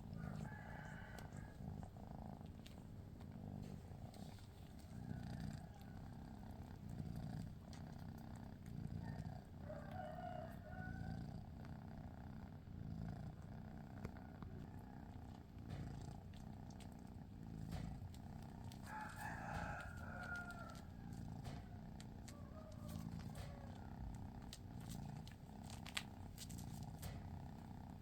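Domestic cat purring steadily, a low pulsing rumble, with a few short higher-pitched calls now and then.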